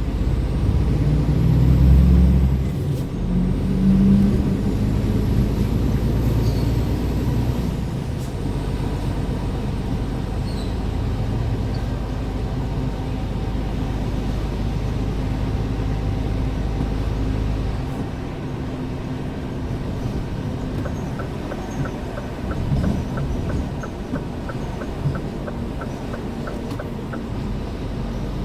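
Scania R410 truck's 13-litre six-cylinder diesel running under way, pulling hard at first with the engine note rising and falling, then running steadily. The engine drops back about two-thirds of the way through, and a quick, regular ticking comes in near the end.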